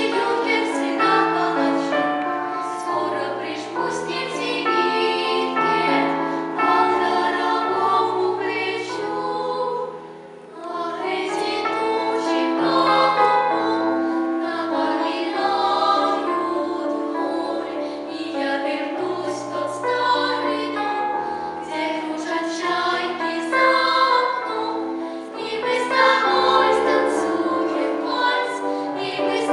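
A vocal ensemble singing a song in several voices over an instrumental accompaniment with a stepping bass line, with a short break in the sound about ten seconds in.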